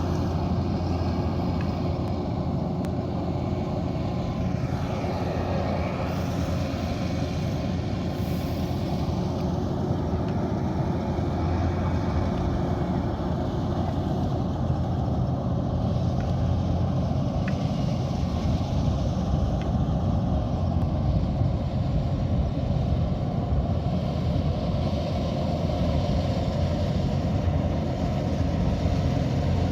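Kubota DC108X combine harvester running steadily under load while harvesting rice: a constant low diesel drone with the mechanical rush of the cutting and threshing machinery.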